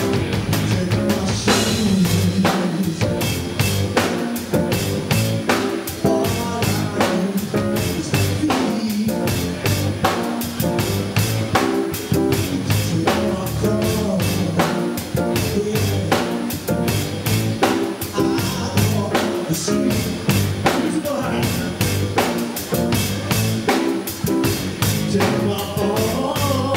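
A band playing music with a full drum kit, rimshots and bass, and singing at times.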